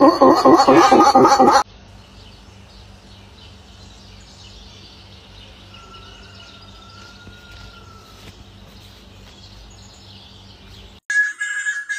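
Faint birds chirping over a low steady hum, with one thin drawn-out whistle about six seconds in. A loud wavering voice fills the first second and a half, and a new loud sound cuts in sharply near the end.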